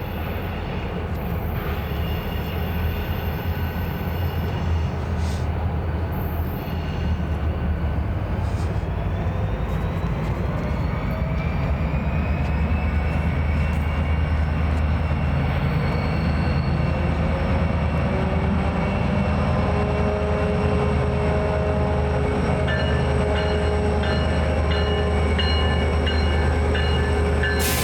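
BNSF freight train running by with a steady low rumble that grows a little louder. A whine rises in pitch partway through, and thin high-pitched tones join near the end.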